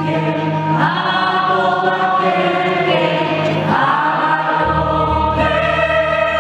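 Choral music: many voices singing held chords that swell twice, over a sustained bass line that moves lower about two-thirds of the way through.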